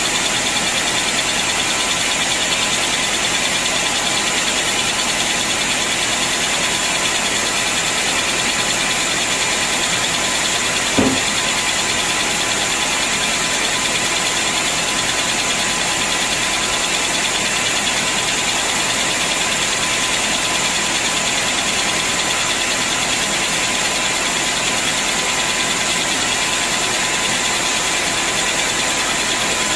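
Sawmill machinery running steadily, a constant mechanical hum with a steady whine, and a single knock about eleven seconds in.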